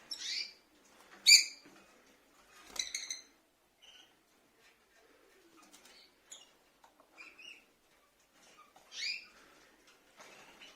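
Rosy-faced lovebirds giving short, sharp chirping calls. The loudest comes about a second in, with a few more scattered through, and faint rustling and scratching between them.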